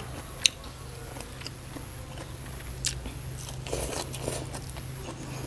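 Close-up chewing and crunching of crisp raw vegetables, with a sharp crunch about half a second in, another near three seconds and a short run of crunches around four seconds, over a steady low hum.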